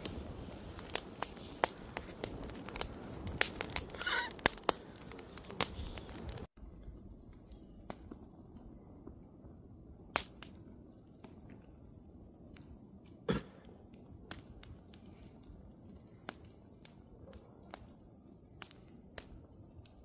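Wood campfire crackling with frequent sharp pops. About six and a half seconds in it cuts abruptly to a quieter stretch with sparser pops and one loud pop near the middle.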